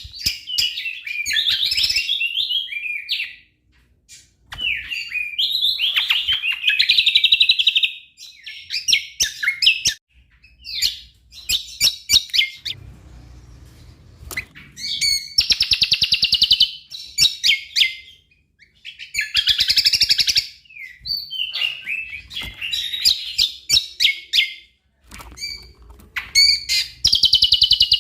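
A cucak kombo (Javan grey-throated white-eye) singing without letup. Its song is rapid, high-pitched and chattering, in bursts one to three seconds long with short pauses between. The song is varied and full of mixed-in motifs.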